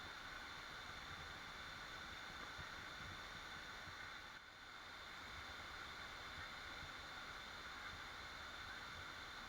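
Waterfall rushing in a steady, even wash of water noise, faint, with a brief dip in level about four and a half seconds in.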